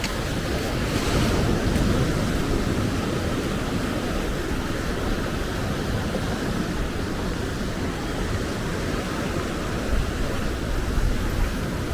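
Steady wind noise buffeting the microphone, a low rumbling rush with no break, with a few small knocks near the end.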